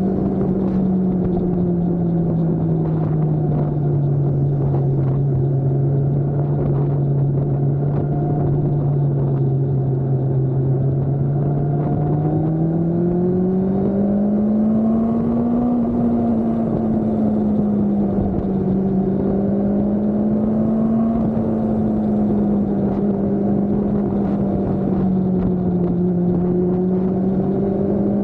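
Motorcycle engine running at fairly steady revs, a continuous drone whose pitch sags slightly, climbs about halfway through, then wavers gently up and down.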